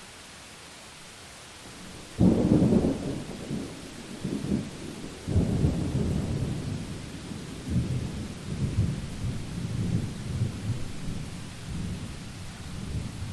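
Steady rain hiss; about two seconds in, a sudden thunderclap breaks into a long rolling rumble of thunder that swells several times and dies away near the end.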